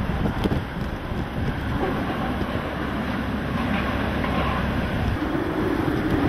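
Hurricane-force wind roaring steadily, a dense low rumble with a hiss of wind-driven rain over it.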